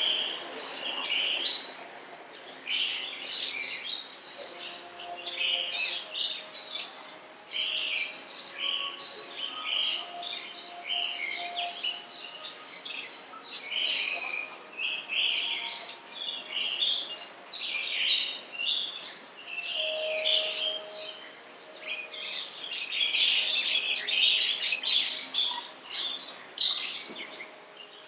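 Small birds chirping and twittering: many short, high calls overlapping without a break, busiest near the end.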